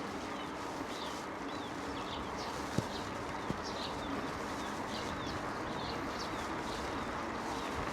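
Small birds chirping again and again over a steady rushing noise of a mountain bike rolling along a trail. Two sharp knocks come about three and three and a half seconds in.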